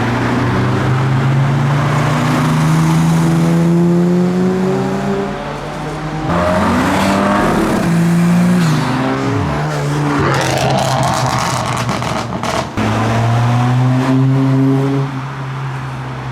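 Cars driving past one after another on the entrance road, engines pulling up in pitch and then dropping as they go by.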